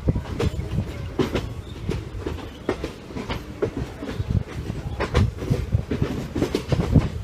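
Indian Railways passenger coach rolling along the track, heard from on board: a steady low rumble with irregular clicks and knocks as the wheels pass over rail joints.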